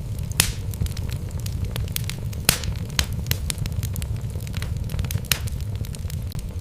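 Wood fire burning in a fireplace: a steady low rumble of flames with irregular sharp crackles and pops from the logs, a few louder snaps standing out.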